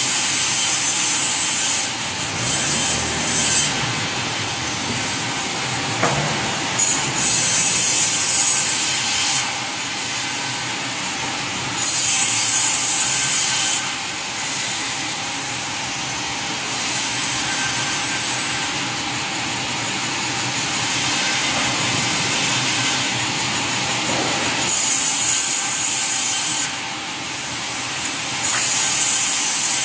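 Sawmill saw cutting wood in repeated passes lasting one to three seconds each, the hissing cut rising and falling over steady machinery noise.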